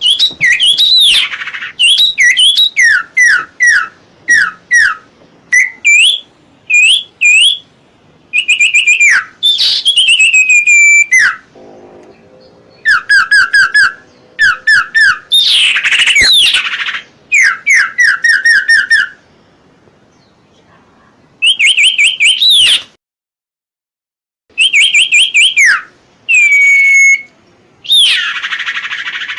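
Common iora (cipoh) singing: repeated phrases of clear whistled notes, each dropping sharply in pitch, given in quick series with short pauses between phrases. The sound cuts out completely for about a second and a half about three-quarters of the way through.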